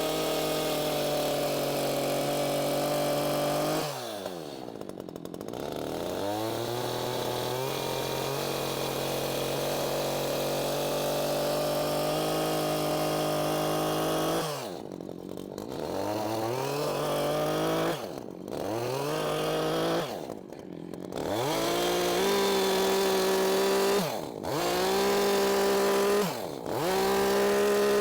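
Chainsaw running at high revs while cutting swooping grooves into a log. The throttle is let off and squeezed again about six times, the pitch dropping and then climbing back each time.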